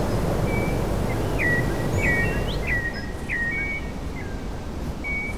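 Wild birds calling: a short chirp that sweeps down in pitch, repeated about twice a second and fading towards the end, over a steady low rumble.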